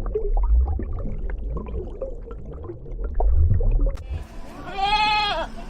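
Low rumbling with scattered soft gurgling noises from farm animals, then about four seconds in an abrupt switch to a single drawn-out livestock call with a clear, wavering pitch lasting about a second.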